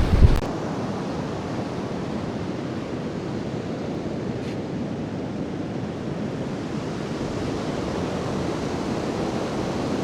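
Rough sea surf breaking and rushing steadily, with wind on the microphone. There is a brief low thump right at the start.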